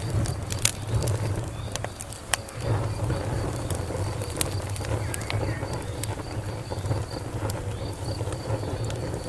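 Wood fire crackling, with irregular sharp pops and snaps over a low steady rumble, while a cricket chirps in an even pulsing rhythm in the background.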